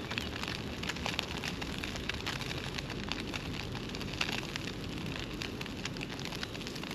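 Matzo Brei frying in a pan on a camping gas stove, with a continuous sizzle full of small crackling pops over a steady low rumble.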